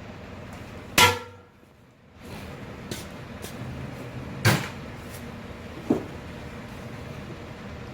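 A few sharp metallic knocks and clanks over a steady background hum. The loudest comes about a second in and rings briefly; smaller clicks follow, then two more knocks, at about four and a half and six seconds in.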